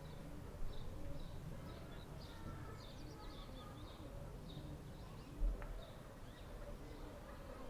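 Small birds chirping in short, repeated notes about twice a second over a steady low background rumble. Two brief low thumps, about half a second in and again around five and a half seconds.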